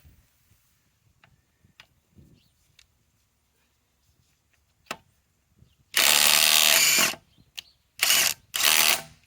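Ryobi PSBIW25 compact impact wrench, set to speed 3, hammering on a lug nut in three bursts: one about a second long about six seconds in, then two shorter ones near the end. Light scattered clicks come before the first burst.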